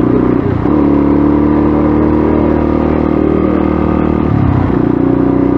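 Motorcycle engine running steadily under way. Its note dips briefly about half a second in and changes again near four and a half seconds, as at gear changes.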